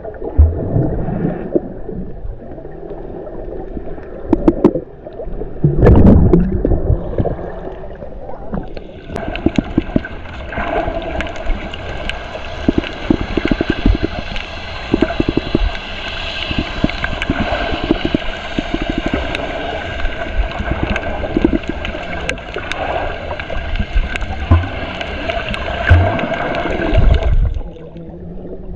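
Water gurgling and sloshing around a camera held in the sea while snorkelling, with dull thumps throughout. A steady hiss comes in about nine seconds in and cuts off shortly before the end.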